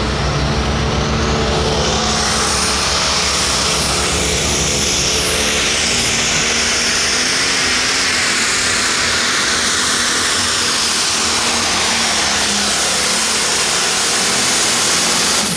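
Turbocharged diesel engine of a Light-Limited Pro Stock pulling tractor running hard at full throttle during a pull. It is loud and steady, and a rising high whine comes in after about two seconds.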